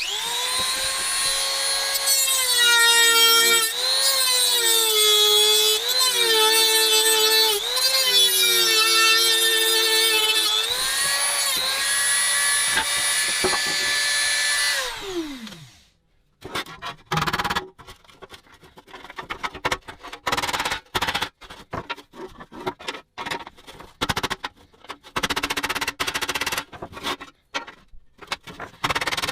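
A small high-speed rotary tool runs with a high whine, its pitch dipping briefly again and again as it is pressed into the work, then spins down and stops about fifteen seconds in. After it comes a run of irregular clicks, taps and scrapes.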